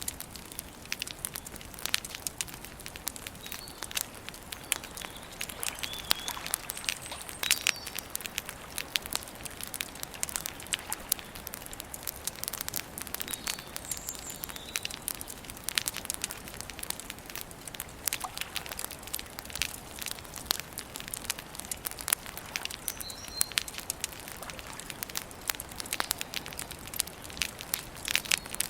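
Wood campfire crackling steadily, with frequent sharp pops and snaps at irregular moments. A few short, faint bird chirps come through now and then.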